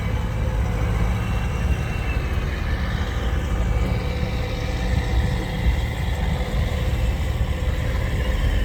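Sherp amphibious ATV's engine running steadily at a low rumble.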